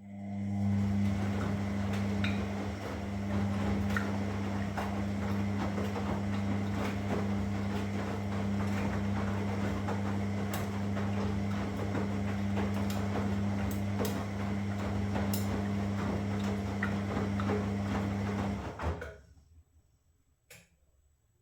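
Washing machine running a steady electric hum under a noisy rush dotted with small clicks. It cuts off abruptly about 19 seconds in, and a single click follows a second later.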